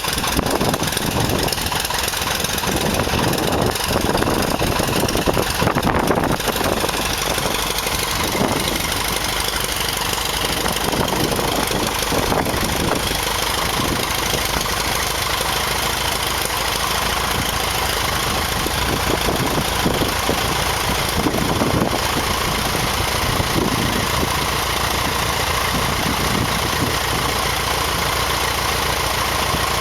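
Light aircraft piston engine running steadily at idle during its first start.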